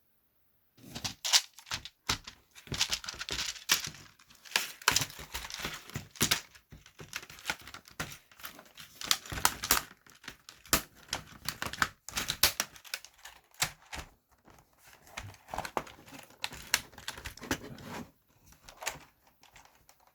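Plastic computer keyboard parts being handled and fitted back together: irregular clicks and knocks of plastic on plastic, mixed with crinkling of thin plastic sheet.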